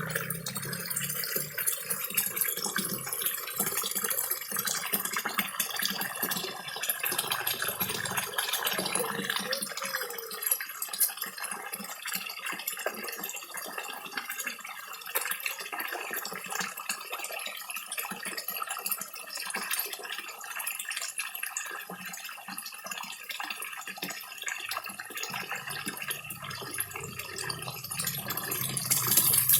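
Water trickling and splashing steadily from a small garden-pond waterfall, with dense small splashes and smacking sounds of koi feeding in a crowd at the surface.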